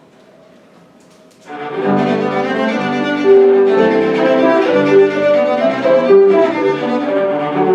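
Quiet room tone, then about a second and a half in a cello starts playing a melody of long held notes.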